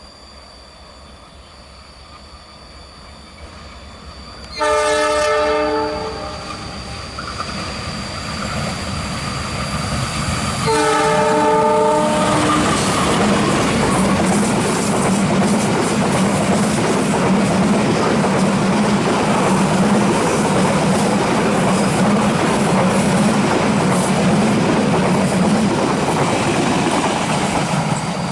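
Indonesian passenger train sounding its multi-note horn twice, each blast about two seconds long and some six seconds apart. The train then passes close by with a loud, steady rumble and rattle of wheels on rail.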